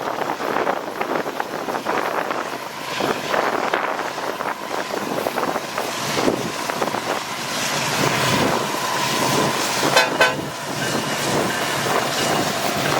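Long intermodal freight train passing close by, its steel wheels rattling and clicking over the rails in a continuous run. Faint high squeal tones come in during the second half.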